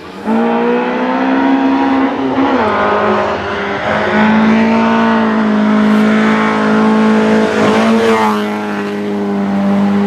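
Rally car engine held at high revs on a special stage, starting abruptly and staying loud, its pitch dipping briefly at gear changes about two and a half and eight seconds in.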